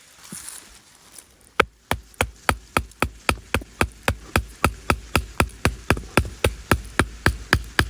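Rapid, evenly spaced sharp knocks, about four a second, starting about a second and a half in, like something being struck over and over.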